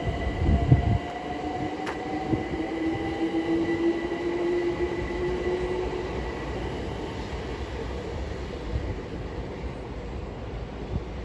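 London Overground Class 378 electric train pulling out of the station, its traction motors whining in a rising pitch as it gathers speed, over a low rumble. A few heavy knocks come in the first second.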